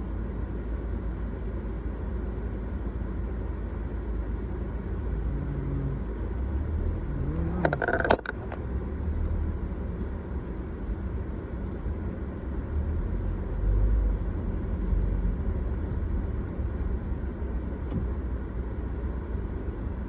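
Steady low rumble of a car running, with one sharp knock about eight seconds in.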